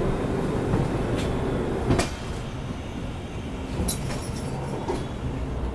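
Double-decker express train running on the rails, heard from aboard the coach: a steady low rumble of wheels on track, with a sharp clack about two seconds in and a few lighter clicks later.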